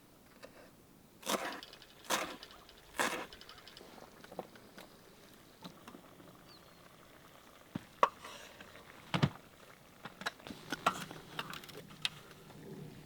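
Three sharp knocks roughly a second apart, followed by scattered lighter clicks and taps, with two sharper clicks near the end.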